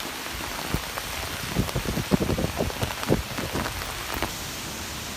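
Hurricane gale with a steady hiss of wind and rain, and irregular low thumps of gusts buffeting the microphone; the thumps bunch up in the middle and give way to a steadier hiss near the end.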